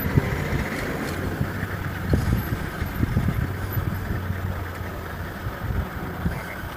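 A vehicle engine idling steadily, a low even hum with some rumble and light knocks over it.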